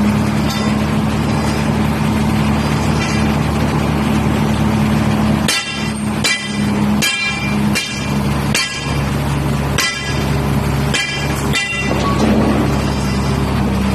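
Boom crane truck's engine running steadily. About halfway through, a string of eight or so short, sharp sounds with a ringing edge breaks in at uneven intervals.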